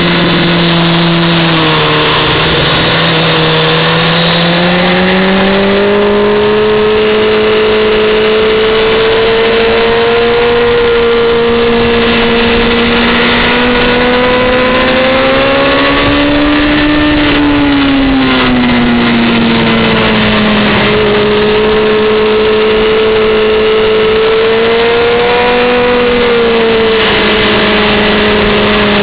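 Honda CBR600F4i's inline-four engine running at high revs on track, heard from the rider's seat with wind rush. The engine pitch climbs gradually to a peak about halfway through, drops away, then holds steady.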